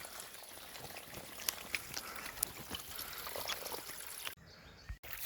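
Spring water pouring and trickling out of rocks and running downhill, a steady rush with a few small clicks. It cuts off suddenly shortly before the end.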